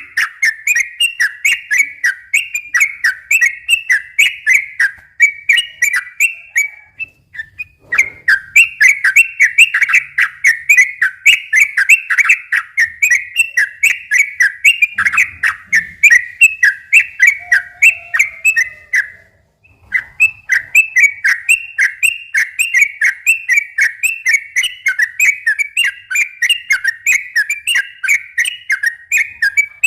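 Yellow-vented bulbul (trucukan) singing a fast, rolling song of quick whistled notes, run together in long unbroken strings, with two short pauses.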